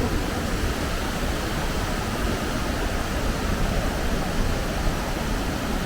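Steady rush of a waterfall running in heavy flow, swollen after a typhoon.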